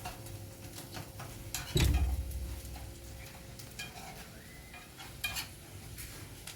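Scattered clicks and knocks of objects being handled, with one heavy thump about two seconds in and a sharper knock a little after five seconds.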